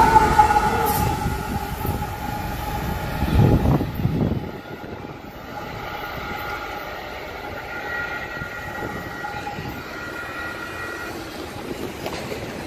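A Union Pacific freight train passing close: a loud rumble of rolling cars with several steady high tones over it. About four and a half seconds in the sound drops sharply to a quieter, more distant train rumble with faint steady tones.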